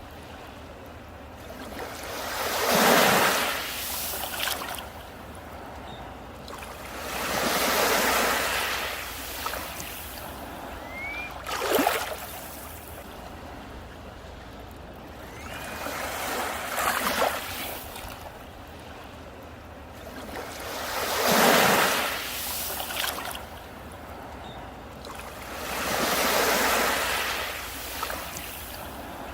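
Sea waves breaking on a beach, surging and washing back about every four to five seconds, six times over. A few brief high rising chirps sound between the waves.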